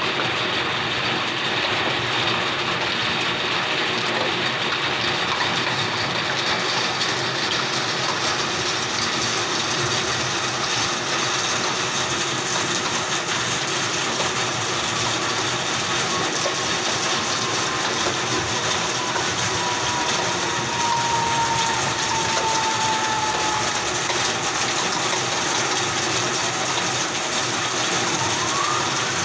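Steady, dense crackling and rushing noise of a large fire burning through houses in the rain. A faint tone slides slowly down about halfway through, and another tone rises near the end.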